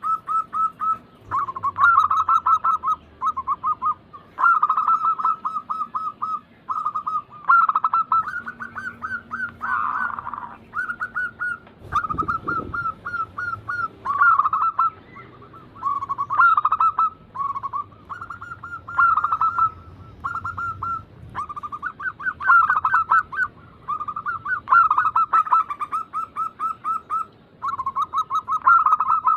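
Zebra doves (perkutut) cooing in quick rolling phrases, one after another with short gaps, a lure recording used to prompt caged perkutut to sing. A brief low thump about twelve seconds in.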